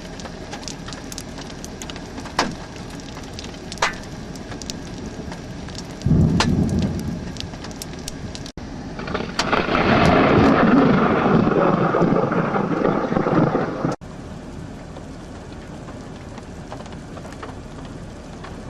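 Scattered hailstones ticking and knocking on a vehicle as hail begins to fall in a thunderstorm. A deep rumble of thunder comes about six seconds in, and a louder, longer peal follows from about nine to fourteen seconds.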